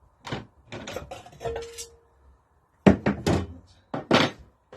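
Metal clanks and knocks from hand work on the gear chain cover of a Lister D engine. One knock rings briefly about a second and a half in, and two louder clatters come in the second half.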